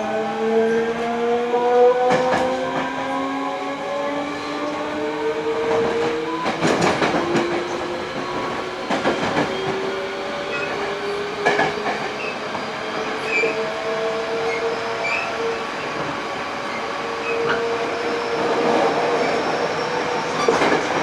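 Toshiba GTO-VVVF inverter of a Hankyu 8000 series train whining in several pitched tones that climb steadily as the train accelerates. The wheels click over rail joints every few seconds.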